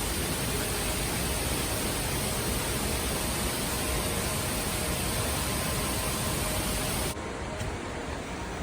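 Steady rushing water of a jungle waterfall, an even full hiss. About seven seconds in it drops abruptly to a slightly quieter, duller rush.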